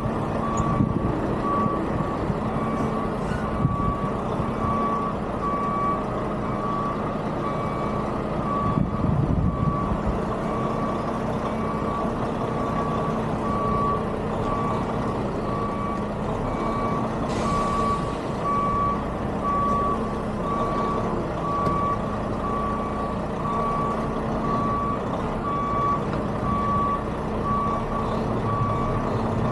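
A semi truck's backup alarm beeping about once a second over the steady running of its engine as the truck reverses into a parking space, with one brief hiss about two-thirds of the way through.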